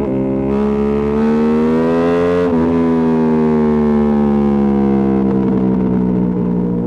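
Ducati Panigale V2S V-twin engine through a Termignoni exhaust, pulling up in pitch for about two and a half seconds and then falling slowly as the throttle eases off.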